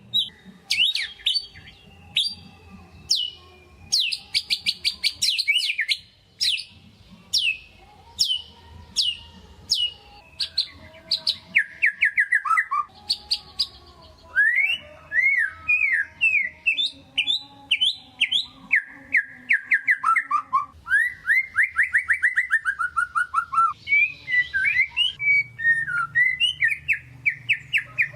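White-rumped shama (murai batu) singing loudly and continuously. Its song opens with a run of sharp whistled notes that sweep downward, each about a second apart, then turns into fast, rippling runs of repeated rising and falling notes.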